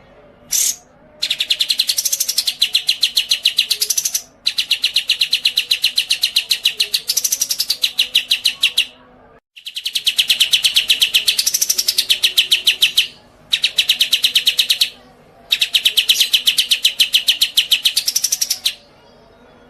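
A songbird singing: a short chirp, then five long, rapid trills of evenly repeated high notes, each a few seconds long with short pauses between. The song cuts out abruptly for a moment about halfway through.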